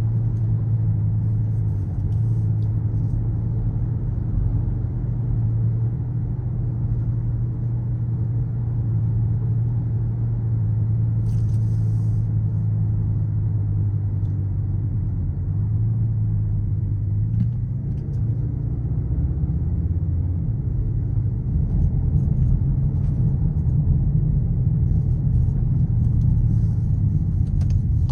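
Skoda Kodiaq RS's turbocharged 2.0 TSI four-cylinder engine and exhaust droning steadily while driving, with road rumble under it. About two-thirds through the steady drone breaks up, and the sound becomes a louder, rougher rumble near the end.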